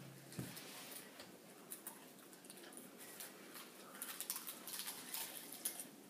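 Two people chewing and crunching popcorn, with many short crisp crackles that come thicker in the last couple of seconds.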